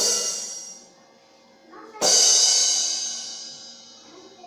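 Drum-kit cymbals struck twice, once at the start and again about two seconds in, each crash ringing bright and fading away.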